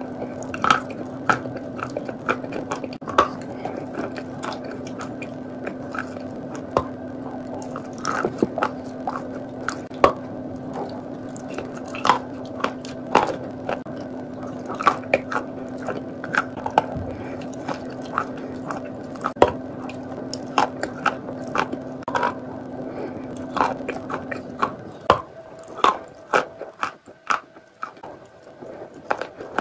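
Close-miked biting and chewing of a chalky block: a long run of sharp crunches and crackles, irregular and several a second, over a steady low hum that stops a few seconds before the end.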